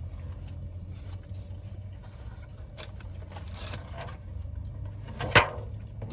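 Idling car engine, a steady low hum inside the cabin, with faint handling rustles and one sharp knock about five seconds in.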